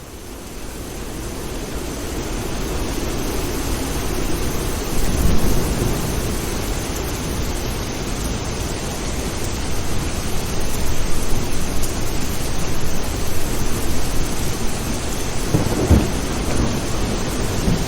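Steady heavy rain with low rolls of thunder, fading in over the first couple of seconds; the thunder swells about five seconds in and again near the end.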